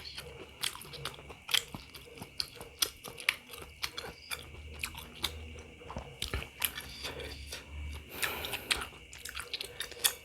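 A person chewing pentol bakso (beef meatballs) close to the microphone: a steady run of short mouth clicks and smacks, several a second.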